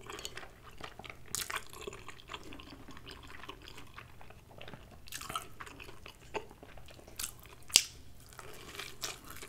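Chewing and biting into a soup-soaked grilled cheese sandwich, soft wet mouth sounds with scattered short clicks. The sharpest click comes about three-quarters of the way through.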